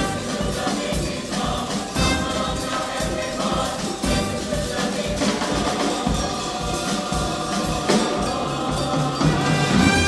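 Choir singing in harmony, with percussion keeping a steady beat underneath.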